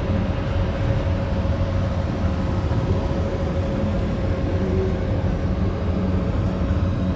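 Kamov Ka-52 Alligator attack helicopter in flight: a steady low rumble from its twin turboshaft engines and coaxial rotors, with a faint steady whine above it.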